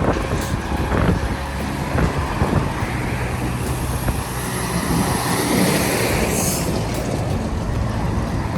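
Strong wind buffeting the microphone: a steady rumbling roar, with a few soft knocks in the first few seconds.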